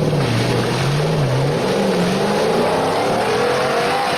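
Car engine running and revving, its pitch dipping about a second in and then climbing steadily, over a steady hiss.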